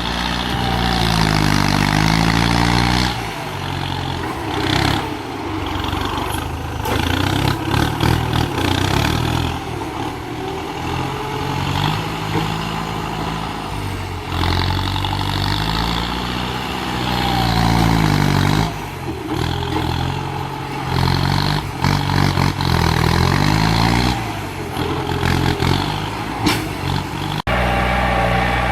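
Kubota tractor's diesel engine running hard under load. Its pitch dips and rises again several times, and there is an abrupt cut near the end.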